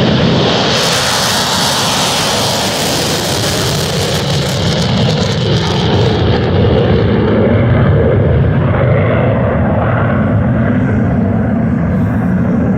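An F-22 Raptor's twin Pratt & Whitney F119 turbofans roaring loudly and steadily at takeoff power. The high hissing edge of the jet noise fades after about six seconds, leaving a lower rumble as the jet pulls away.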